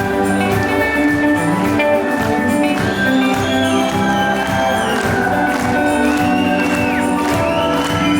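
Live rock band playing, with a steady drum beat under sustained chords and a high melody line that bends and slides in pitch.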